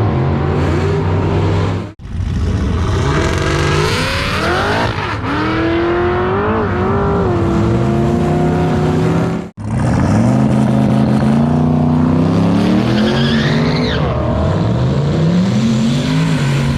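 Drag-racing cars accelerating hard down the strip, engine pitch climbing repeatedly as they pull through the gears. The sound comes in three takes, broken off abruptly about two seconds in and again about nine and a half seconds in.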